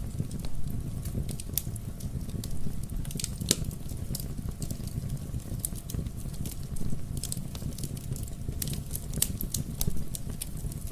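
Wood fire burning in a fireplace: a steady low rumble of the flames with irregular crackles and sharp pops of the burning wood.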